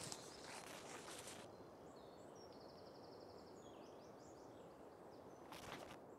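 Faint outdoor quiet with rustling in the first second and again near the end. In between comes a small bird's high, quick trill followed by a few short chirps.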